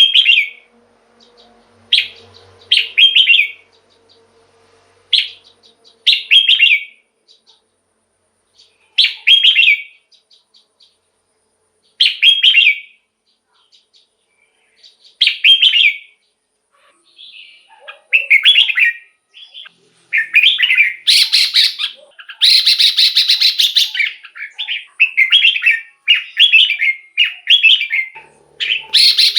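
Red-whiskered bulbul singing: short, bright warbled phrases every few seconds. About two-thirds of the way in they become rapid and almost continuous.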